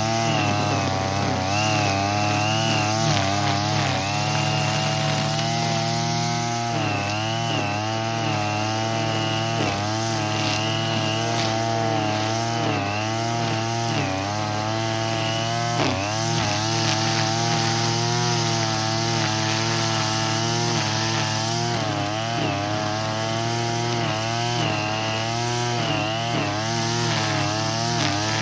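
Brush cutter with a nylon-cord head running at high speed while cutting weeds, its small engine's pitch wavering and dipping briefly every few seconds as the cord bites into the growth, then picking back up.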